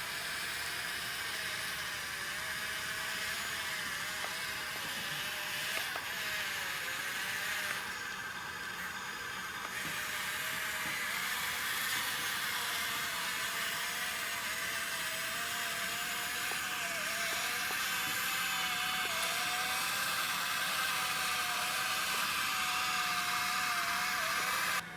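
Small electric motor of a radio-controlled excavator model running steadily: a whine that wavers slightly in pitch over a constant hiss, cutting off abruptly just before the end.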